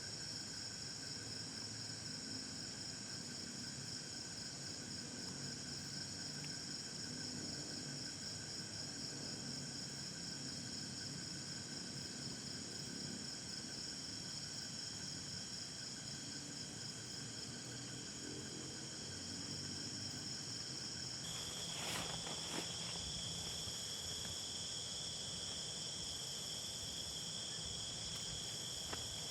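Insect chorus: several insects trilling steadily at different high pitches. A lower-pitched trill joins about two-thirds of the way in, with a brief knock just after.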